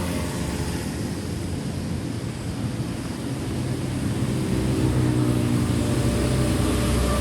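An engine running with a steady drone that grows louder about four to five seconds in.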